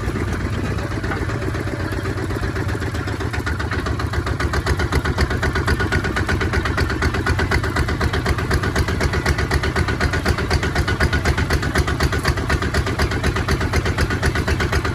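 Kubota ZT155 tractor engine running steadily with an even, rapid beat, which grows a little louder about four seconds in.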